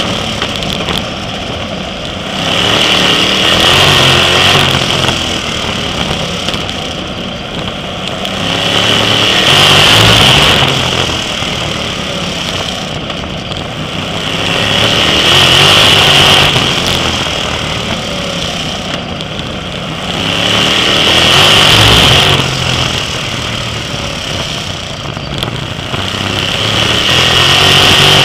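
Sprint car engines at racing speed, swelling under full throttle and easing off in a regular cycle about every six seconds, as the cars power down the straights and lift for the turns.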